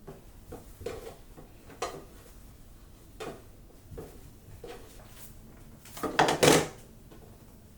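Kitchen containers and a drawer being handled: a series of light knocks and clatters about a second apart, then a louder clatter about six seconds in.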